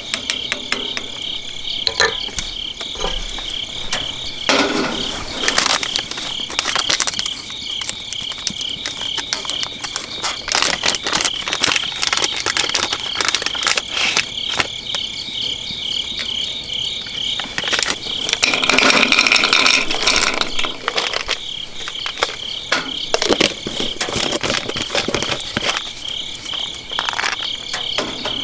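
Insects, crickets by their steady pulsing chirp, trilling continuously, with irregular pops and crackles of a wood bonfire. A louder noisy rustle comes about two-thirds of the way through.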